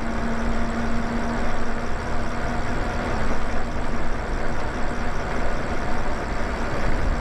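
Wind rumbling on the microphone and road noise from riding an electric bike, with a steady hum that fades out about a second and a half in.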